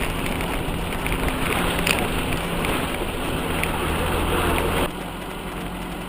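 A UAZ off-road vehicle's engine running steadily under a dense hiss of noise, with a few clicks. The hiss drops suddenly near the end while the engine keeps running.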